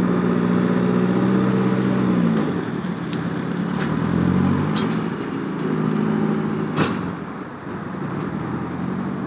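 JCB 3CX backhoe loader's diesel engine running, its note dropping a little after about two seconds and climbing again around five to six seconds. A sharp click about seven seconds in.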